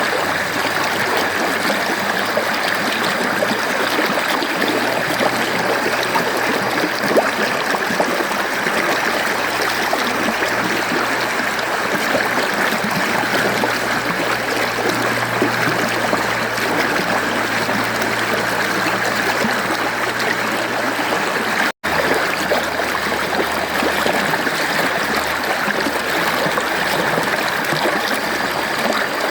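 Mountain stream flowing steadily over rocks, an even rushing and gurgling of water. It cuts out for a split second about three-quarters of the way through, then resumes unchanged.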